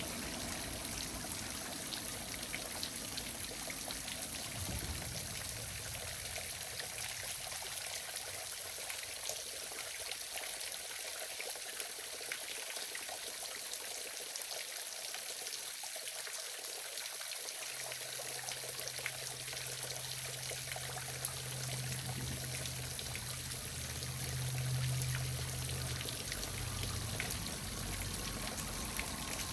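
Waterfall rushing in a steady, even hiss of falling water. A low hum joins it a little past the middle and swells briefly near the end.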